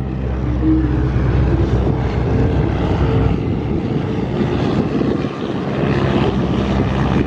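Propeller-driven biplane's engine running in a steady drone as the plane flies a pass.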